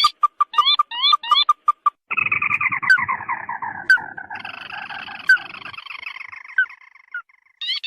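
Bird lure (pikat) recording of the tututan mata merah calling: a fast run of short clear notes, several of them rising, then about two seconds in a long chattering trill that slides gradually down in pitch and fades out. A burst of rising notes comes back near the end.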